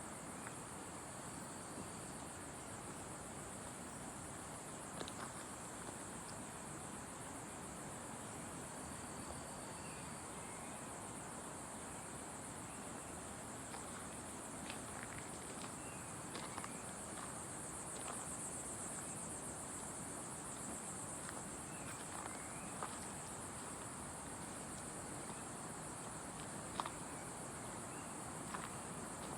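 Steady high-pitched drone of insects in forest, with a few short bird chirps and scattered faint clicks.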